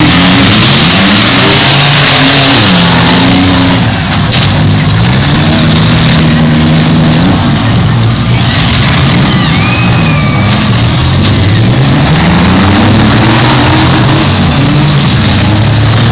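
Demolition derby car engines revving loud and hard, their pitch climbing and falling again and again.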